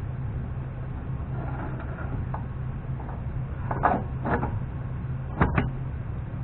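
Steady low hum throughout, with a few sharp clicks and knocks of metal hub parts being handled about four and five and a half seconds in.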